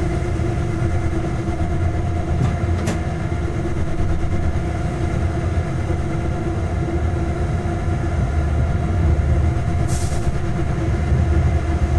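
Freight train running along the track, heard from the locomotive cab: a steady low rumble with a constant hum. There are two faint clicks about two and a half seconds in and a brief hiss about ten seconds in.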